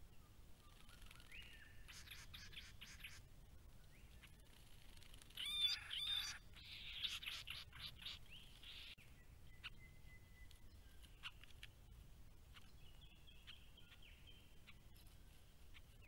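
Wild birds calling. There are a few short chirps about a second in, then a louder run of wavering calls around five to six seconds in. Scratchy chatter follows, then scattered faint chirps over a low hiss.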